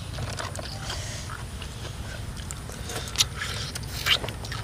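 Close-up eating sounds: people chewing and smacking their lips over spicy papaya salad with cockles, with many small wet clicks and two sharper smacks about three and four seconds in, over a steady low rumble.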